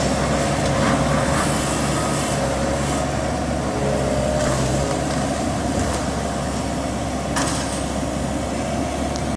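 Heavy vehicle engine running steadily, a low hum with a steady whine over it, and a few faint knocks. It cuts off suddenly at the end.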